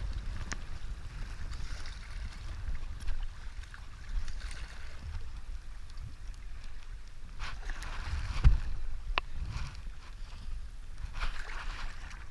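Paddle strokes and river water splashing around a stand-up paddleboard in whitewater, coming irregularly every second or two. Wind buffets the microphone in a steady low rumble.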